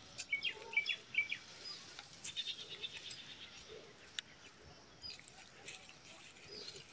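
Faint short chirping bird calls, several in quick succession in the first second and a half and a few more about two seconds in, with scattered soft ticks.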